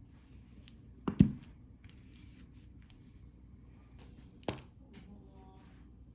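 Sharp knocks, like objects set down or tapped: two in quick succession about a second in, the second the loudest, and one more about four and a half seconds in, over quiet room tone.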